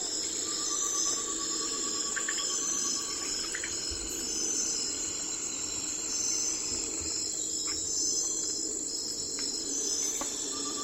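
Night-time chorus of crickets and other insects, a steady high-pitched trilling. A second, lower rapid trill runs for about three seconds early on and starts again near the end.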